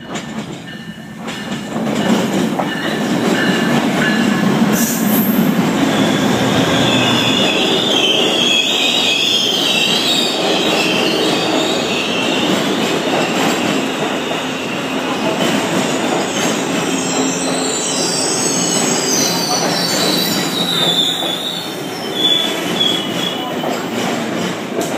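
Amtrak diesel passenger train pulling into a station and passing close by, getting loud about two seconds in as the locomotive arrives, then a steady rumble of the cars rolling past. A high, wavering wheel squeal runs through the middle as the train brakes to stop at the platform.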